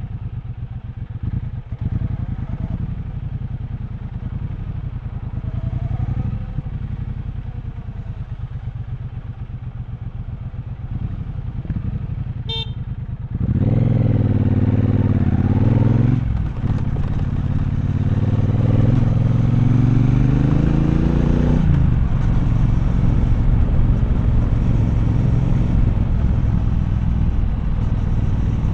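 Triumph Bonneville Bobber's 1200 cc parallel-twin engine rumbling at low revs, then about halfway through it opens up and pulls hard, the pitch rising, dropping at a gear change, rising again through the next gear, then running steadily at speed. A short beep sounds just before the acceleration.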